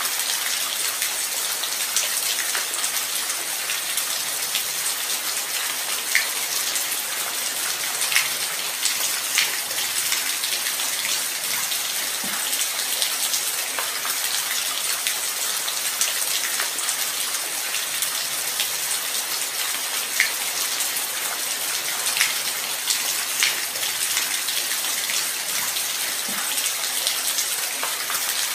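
Steady light rain: an even hiss with scattered sharper ticks of single drops hitting a surface.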